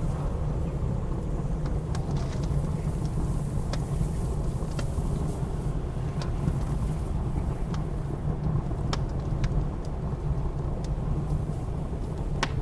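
Blizzard wind making a steady low rumble, with a wood fire crackling over it: sharp pops and snaps about once a second.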